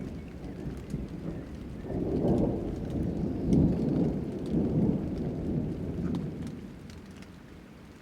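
Rolling thunder over steady rain: a low rumble swells about two seconds in and dies away near the end, with light raindrop ticks throughout.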